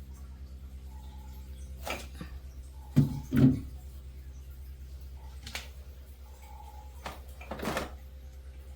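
Drink containers and food items knocked and set down on refrigerator shelves: a series of short knocks, two loud ones close together about three seconds in, over a steady low hum.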